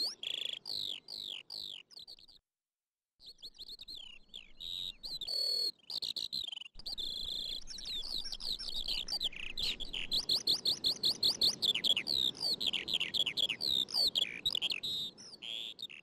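Birds chirping: fast runs of short, high falling chirps, several a second, growing denser after about seven seconds. The sound cuts out completely for a moment about two and a half seconds in.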